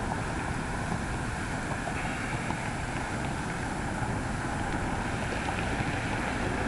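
Steady wind noise buffeting the microphone of a camera carried on a moving bicycle.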